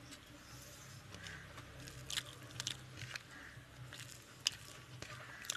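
Close-miked eating of rice and pomfret fish curry: wet chewing with short sharp clicks and smacks, the loudest about four and a half seconds in.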